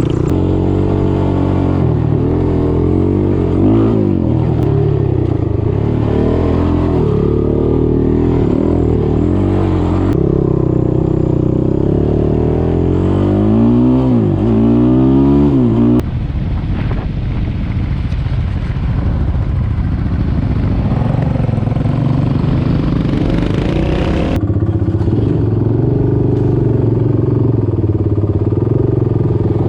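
Off-road vehicle engine running hard while being ridden, its pitch rising and falling as it revs up and down through the gears. The sound changes abruptly about halfway through and again later.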